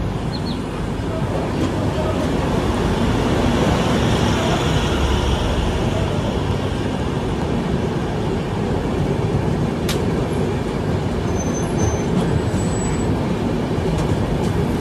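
Steady running noise of a passenger train's wheels on the rails as two trains move past each other on adjacent tracks, with one sharp click about ten seconds in.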